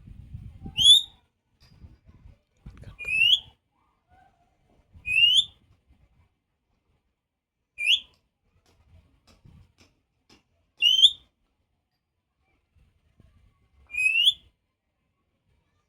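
A parrot whistling: six short, rising whistles, each alike, repeated every two to three seconds.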